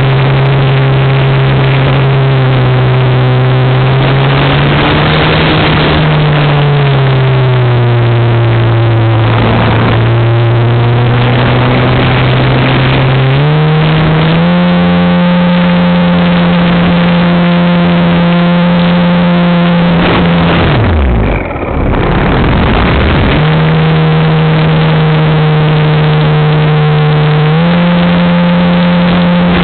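Electric motor and propeller of an RC Super Cub model plane in flight, heard from a wing-mounted camera. It is a loud steady drone that shifts up and down in pitch with throttle changes. About two-thirds of the way through the throttle is cut, so the pitch falls away and then picks up again about two seconds later. Air rushes over the microphone throughout.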